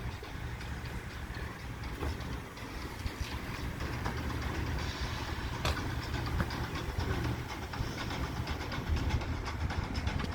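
Gas station fuel pump running as gasoline flows into a truck's tank near full: a steady low hum with a light rushing hiss, and one sharp click a little past halfway.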